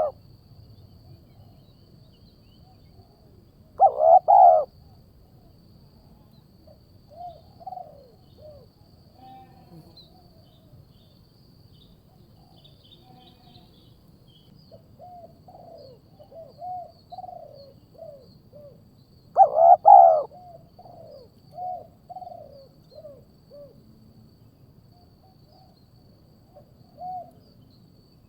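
Bird calls of the kind played as a lure for trapping eagles. Two loud calls come about 4 s and 20 s in, with many short, softer falling notes scattered between them.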